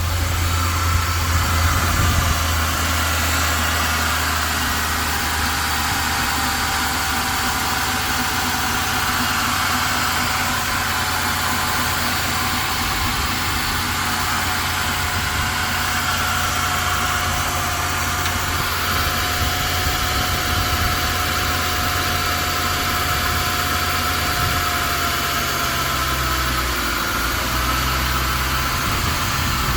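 1996 Ford Thunderbird engine idling steadily just after a cold start, a little louder for the first couple of seconds before settling.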